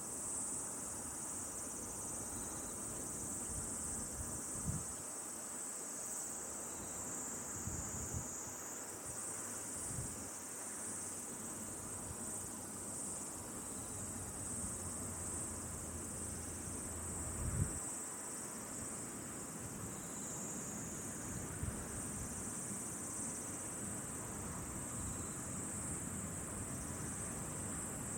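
Steady, high-pitched chorus of insects trilling without a break. A few soft low thumps come through, the loudest a little past the middle.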